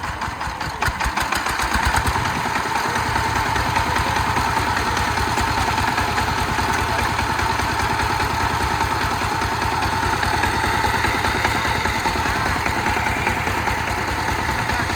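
Small Chinese-made 13.46-horsepower tractor engine running, picking up about a second in, then running steadily.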